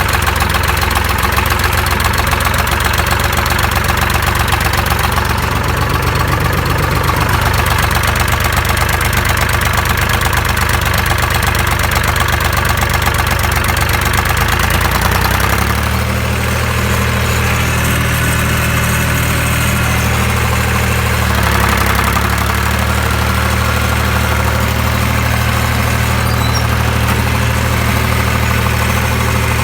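Case 380CK tractor engine running steadily through a small aftermarket muffler made for a Ford 8N. Its note shifts about halfway through and again a few seconds later.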